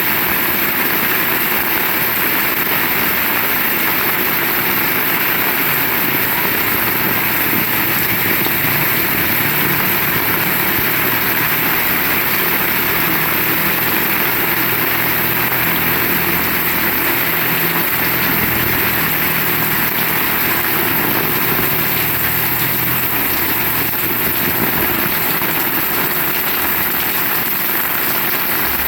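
Heavy rain falling in a steady, dense hiss. A low mechanical hum joins for a stretch in the middle.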